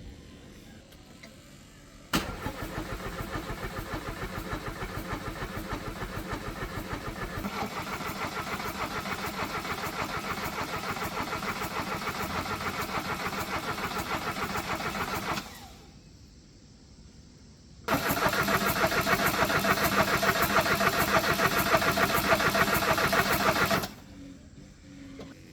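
A car engine being cranked on its starter in two long tries, about thirteen seconds and then about six seconds, with a fast, even pulsing. Each try cuts off suddenly without the engine settling into a run.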